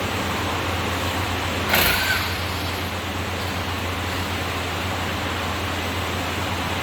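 Steady low mechanical hum with a hiss over it, unchanging in level, and one short sharp noise about two seconds in.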